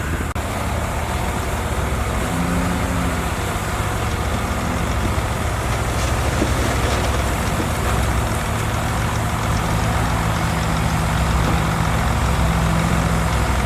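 Heavy diesel engine of earthmoving machinery running steadily: a loud, low drone that holds throughout, with a hum that comes up for a moment a few seconds in and again for a longer stretch in the second half.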